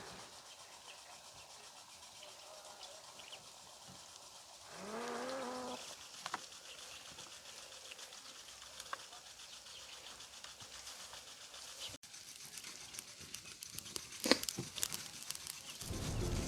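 A farm animal calls once about five seconds in, a single rising call of about a second, over a faint outdoor background. A few sharp clicks or knocks follow later, and music starts near the end.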